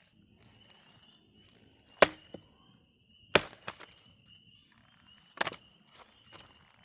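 Three sharp strikes, about a second and a half apart, each followed by a smaller knock or two, typical of a hatchet chopping wood or a mallet driving tent stakes in a camp setup. A steady high-pitched trill runs behind them.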